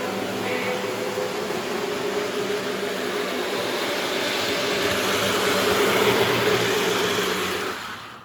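Lionel F3A model diesel locomotive running along the track: a steady hum of motor and wheels on the rails. It grows louder about five to seven seconds in, then cuts off suddenly near the end.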